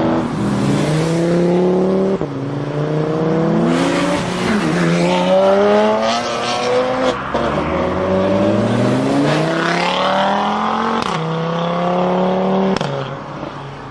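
BMW 1 Series M Coupe's twin-turbo straight-six running through a modified exhaust, revving and accelerating: the engine pitch climbs and drops again and again, as on gear changes. The sound cuts abruptly several times, as between takes.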